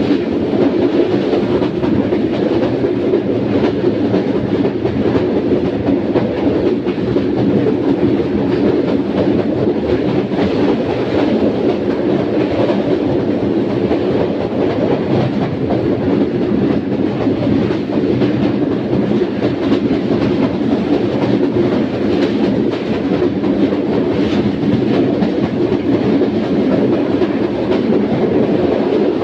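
Steady track rumble of a Karakoram Express passenger train running at speed, wheels on rail, with faint clicks now and then.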